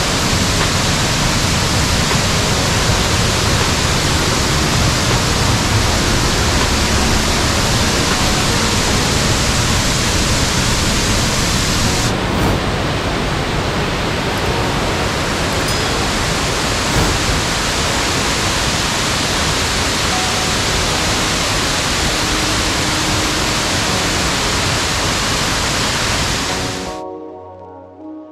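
Loud, steady rush of falling water close to the microphone. It cuts off a second or so before the end, giving way to music.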